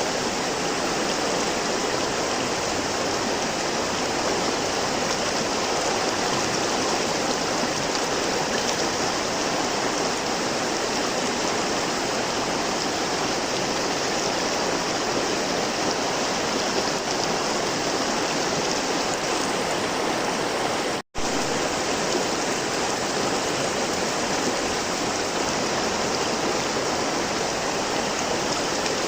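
River water flowing steadily, an even rushing with no change in strength. The sound cuts out for an instant about 21 seconds in, then resumes as before.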